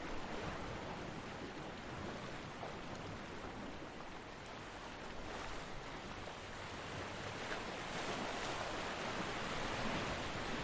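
Ocean surf washing on a beach, a steady rushing noise that slowly builds over the second half as a wave comes in.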